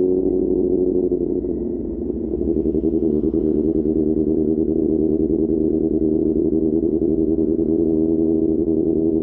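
QJ Motor SRK600's inline-four engine through an SC-Project exhaust while riding, holding a steady note at first. It dips in level about a second and a half in, then comes back with a pulsing, uneven exhaust note.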